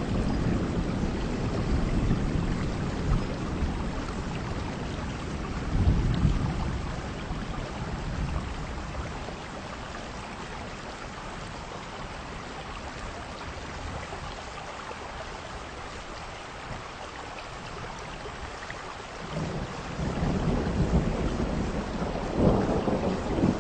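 Heavy rain falling steadily, with wind. Low surges swell and fade near the start, about six seconds in, and again near the end, with a quieter stretch in the middle.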